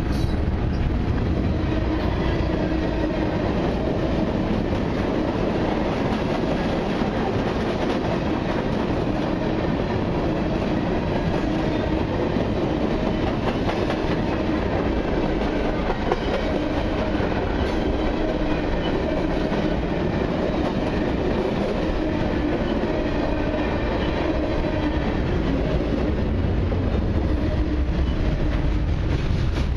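Cars of a long CN mixed freight train (gondolas, flatcars and coil cars) rolling steadily past, with a continuous noise of steel wheels on rail.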